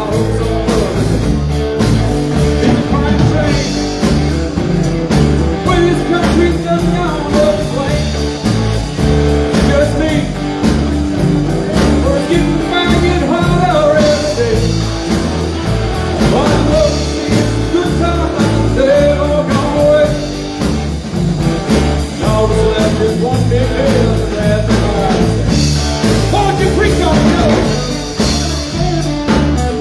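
Live rock band playing a bluesy rock and roll song with electric guitar, bass and drums on a steady beat, with a singer's voice over it.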